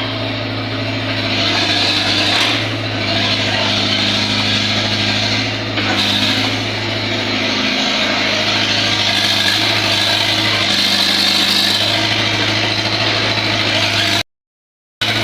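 A small motor or power tool running steadily, a constant hum under a rough hiss.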